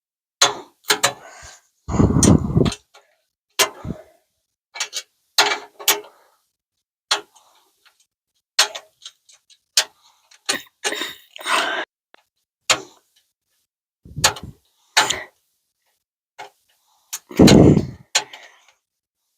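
Irregular sharp metal clicks and clinks of a screwdriver and wrench working the screws and nuts of a license-plate mount, with two heavier knocks, about two seconds in and near the end.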